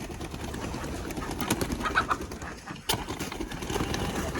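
Backyard poultry flock (chickens, with ducks and guinea fowl among them) softly clucking and murmuring, with a few higher calls and one sharp click about three seconds in.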